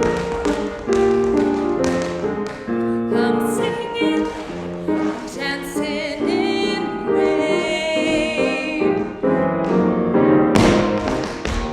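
Tap shoes striking the stage over a live piano accompaniment. Partway through, the tapping gives way to a held, wavering sung note over the piano, and quick tapping starts again near the end.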